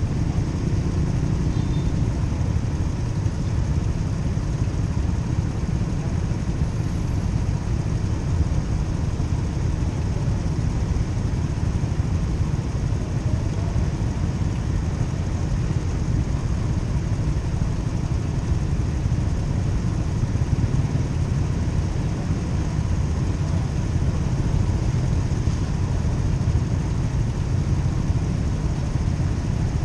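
Motorcycle running steadily, a constant low rumble with no rise or fall in engine speed.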